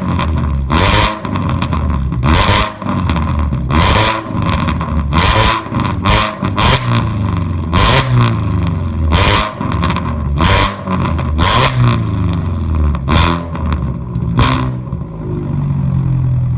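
Fiat Panda 100HP's 1.4 16-valve four-cylinder engine being blipped repeatedly on a straight-through exhaust (4-2-1 headers, centre box removed, a 200-cell catalyst as the rear box). About a dozen short revs come roughly one every second and a half, each rising and falling, and it drops back to a steady idle near the end.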